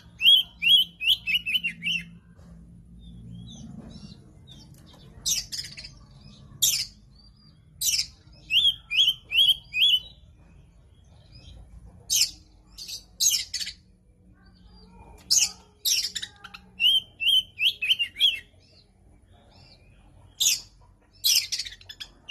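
Oriental magpie-robin (kacer) singing in short repeated phrases: a sharp high note, then a quick run of four to six chirps, about six phrases a few seconds apart.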